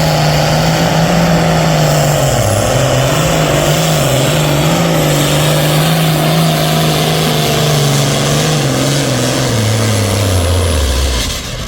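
Pro stock pulling tractor's turbocharged diesel engine at full throttle under load as it drags the sled. It holds a steady high pitch with a brief dip a couple of seconds in, then drops away near the end as the run ends.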